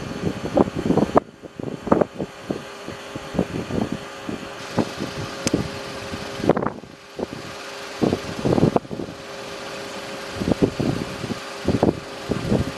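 Wind gusting on an outdoor microphone in irregular rumbling buffets, over a steady hiss and a faint steady hum.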